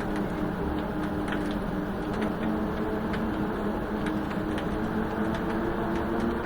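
Wind-test machine running steadily, a constant drone with a low hum, with scattered light ticks through it.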